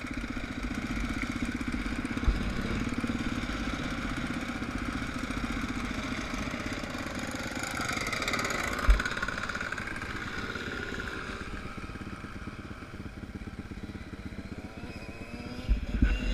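Suzuki DR 350 single-cylinder four-stroke dirt bike engine running steadily, heard from a camera mounted on the bike. There is a short knock about two seconds in and a sharper one about nine seconds in.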